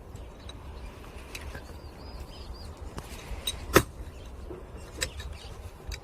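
Axe chopping firewood: one sharp, loud strike into a log a little past the middle, with a lighter knock about a second later and a few faint taps before.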